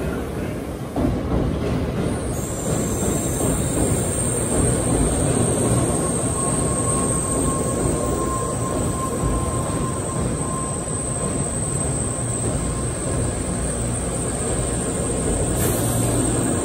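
Shinkansen bullet train rolling slowly into a station platform, a steady rumble of the carriages passing as it slows toward a stop, with a high thin whine that comes in about two seconds in and holds steady.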